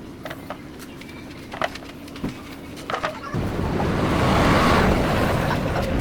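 Steady low motor hum with a few scattered clicks, then a loud rushing noise that swells from about halfway through and eases off near the end.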